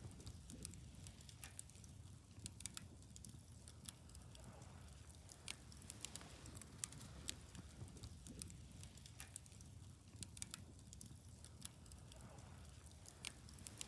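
Wood campfire crackling faintly: irregular sharp snaps and pops, several a second at times, over a low steady rumble.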